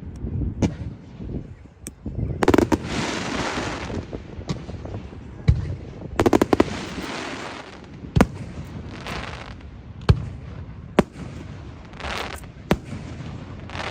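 Aerial fireworks bursting overhead: single sharp bangs every second or two, two quick volleys of cracks about 2.5 and 6 seconds in, and crackling after several of the bursts.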